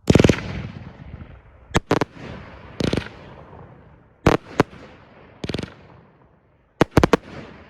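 Funky Fireworks Formata 25B firework cake firing: a loud burst, then a string of sharp bangs at irregular intervals, with three in quick succession near the end, each trailing off briefly.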